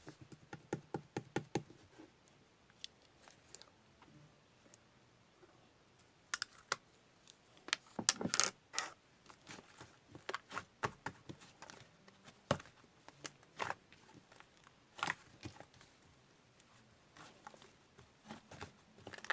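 Irregular sharp clicks and taps, like small hard objects being handled. There is a quick run of taps in the first two seconds, a dense flurry about eight seconds in, then scattered single clicks.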